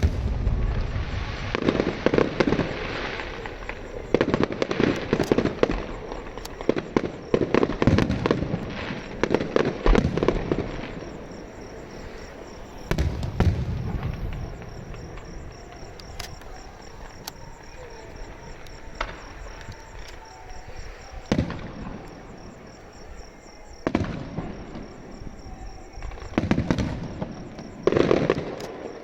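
Fireworks going off in rapid flurries of bangs and crackling, several dense volleys in the first ten seconds, a quieter stretch with scattered single bangs, then more volleys near the end.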